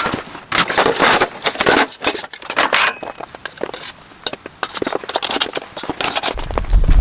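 Snow crunching and scraping in irregular bursts, with sharp clicks between them. A low rumble comes in near the end.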